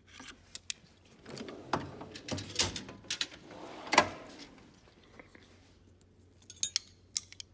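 Metal hand tools and sockets clinking and knocking as they are sorted out for the job. The clatter is busiest in the first half, with one louder knock about four seconds in and a few sharp clicks near the end.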